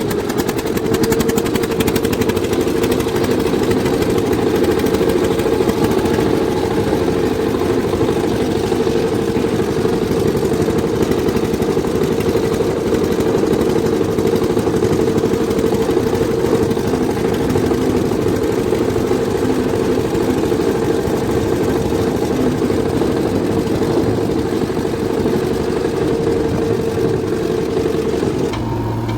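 Eicher tractor's diesel engine running steadily at a constant speed, its note changing just before the end.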